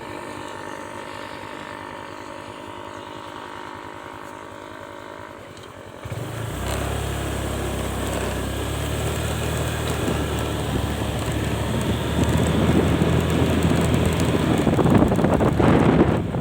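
Motorcycle engine running steadily at idle, then about six seconds in it gets suddenly louder and keeps building as the bike rides off, with wind rushing over the microphone.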